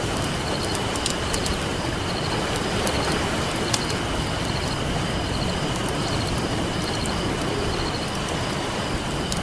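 Campfire crackling with scattered sharp pops over a steady wash of ocean waves. A thin steady high-pitched tone runs underneath, with faint pulsing chirps above it.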